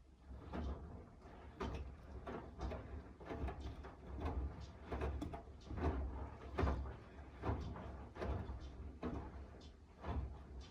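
Miele W1 washing machine drum tumbling a wash load: a run of irregular thuds, about one or two a second, over a steady low hum from the machine.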